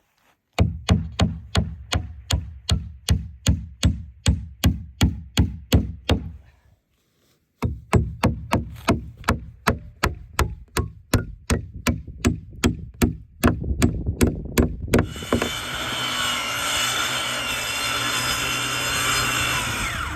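Rapid, even knocking, about three to four strokes a second, with one brief pause. In the last five seconds a power saw cuts into lumber with a steady, loud noise.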